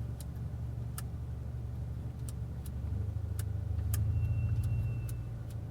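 Mercedes-AMG A35's turbocharged four-cylinder idling, heard from inside the cabin as a steady low hum that swells slightly about three seconds in. Scattered light clicks sound over it.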